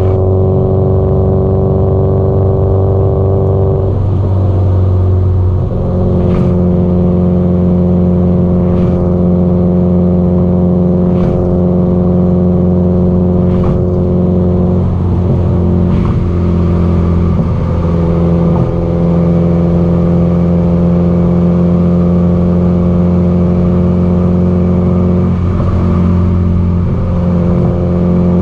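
Subaru Impreza WRX STI (GDB-E) turbocharged 2.0-litre flat-four through an aftermarket muffler, running steadily under way at cruising speed. The note wavers briefly a few times as the throttle eases and comes back. Faint ticks sound about every two and a half seconds for a while.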